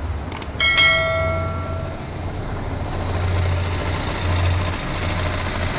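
Jetour X90's engine idling with a steady low hum. The engine and its dual-clutch transmission are noisy where they join, and the mechanic suspects the clutches or flywheel. Near the start come a few clicks and a ringing bell chime that fades over about a second.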